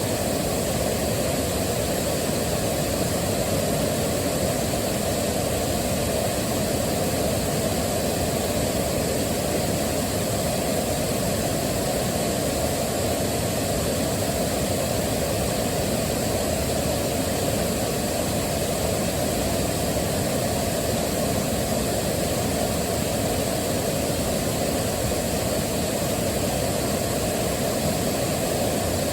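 Waterfall rushing in an even, unbroken wash of water noise, heaviest in the low and middle range.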